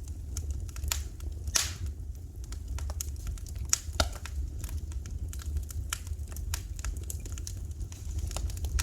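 Wood fire crackling in a fireplace: irregular sharp pops and snaps, two louder ones about one and a half and four seconds in, over a steady low rumble.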